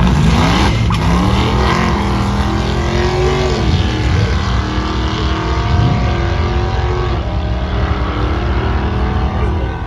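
Car engine revving hard: its pitch climbs over the first two seconds, then holds at high revs with a few brief dips.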